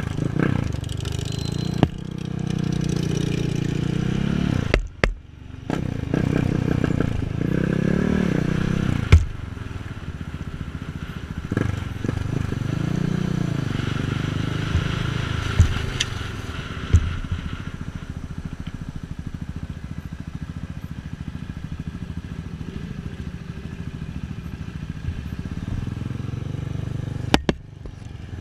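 KTM 690 Duke's single-cylinder engine pulling through the revs, its pitch rising and falling several times under steady noise, with a few sharp knocks.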